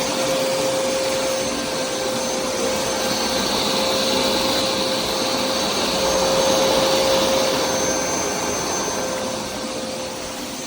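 Hoover SmartWash upright carpet cleaner's suction motor running steadily: a constant whine over a rushing hiss.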